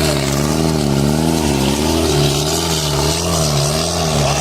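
Tractor diesel engine labouring under a heavy pulling load, its pitch rising and falling in a steady wavering rhythm about every two-thirds of a second.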